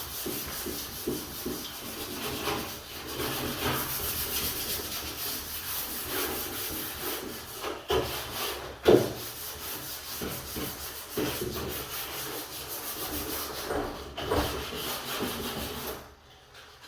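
Repeated rubbing strokes against a wooden door surface, a scratchy steady scraping broken into short strokes, with one sharp knock about nine seconds in. It dies down briefly near the end.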